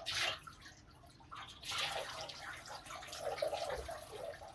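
Water splashing in uneven bursts, with a short burst at the start and a longer stretch from about a second and a half in.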